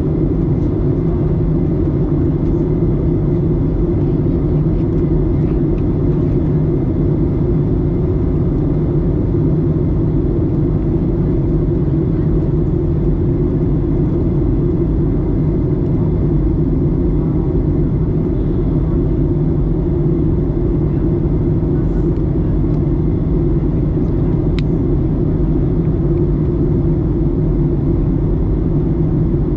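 Steady cabin noise inside a Boeing 737-900ER airliner in flight: an even, deep rush of engine and airflow noise with a faint high steady tone over it.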